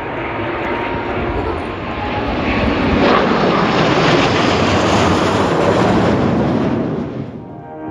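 Jet flyby of Blue Impulse Kawasaki T-4 jet trainers: the jet noise builds, peaks in the middle, then fades quickly near the end.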